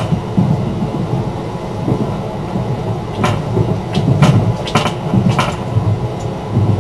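Passenger train running, heard from inside the car: a steady low rumble, with a handful of sharp wheel clacks over rail joints from about three seconds in.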